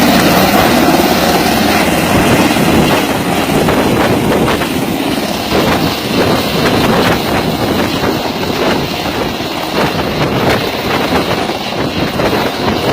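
Helicopter running, loud and steady.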